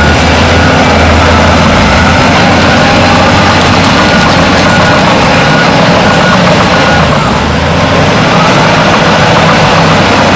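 Heavy diesel earthmoving machinery running loud and steady: bulldozer and dump truck engines with a deep, low rumble.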